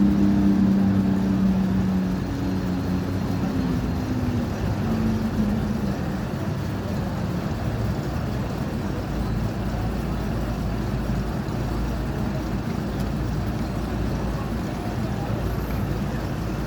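Vehicle engine hum with a steady pitch that fades out about five seconds in, over continuous road traffic noise.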